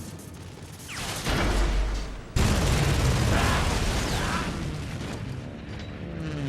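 Film sound effect of an explosion: a low rumble builds, then a sudden loud blast about two seconds in that rumbles on and slowly fades.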